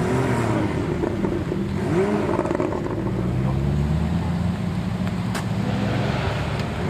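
Car engine running at low revs, with a short rise and fall in pitch about two seconds in.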